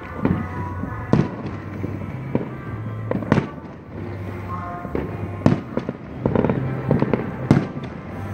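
New Year's Eve fireworks and firecrackers going off across the city: a string of sharp bangs at irregular intervals, with music playing underneath.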